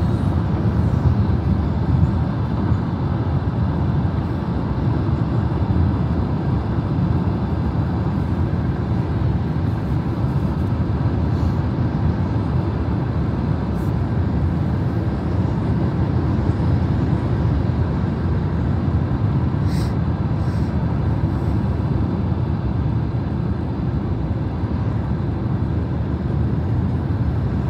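A long train passing, heard as a steady low rumble, with a short sharp click about twenty seconds in.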